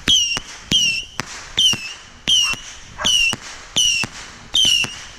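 Bottle rockets going off in quick succession: about seven sharp pops, each with a short falling whistle, evenly spaced a little under a second apart.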